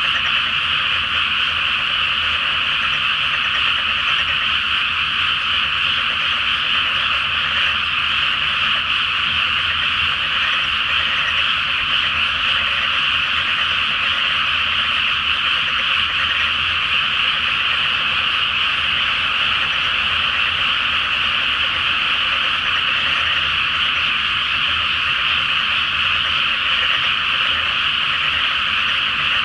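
A dense, unbroken chorus of many frogs croaking at once in a flooded rice paddy, the calls overlapping into a steady high din. A faint low hum sits underneath.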